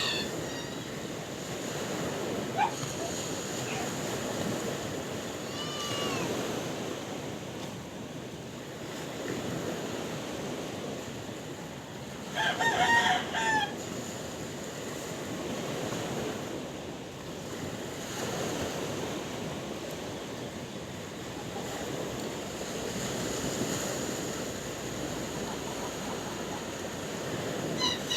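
Sea surf washing in steady rolling swells, with a rooster crowing once about halfway through, the loudest sound; a few short fainter calls come and go.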